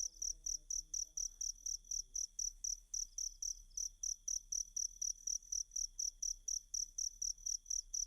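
Cricket chirping continuously in a fast, even rhythm of short high chirps, about four to five a second.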